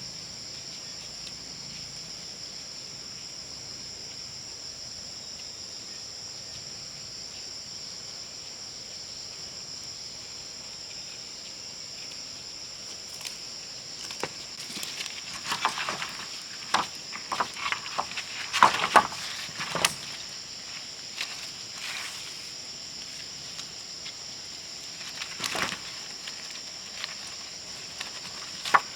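Steady high-pitched insect drone. A cluster of sharp knocks and clicks comes about halfway through, with one more a few seconds later.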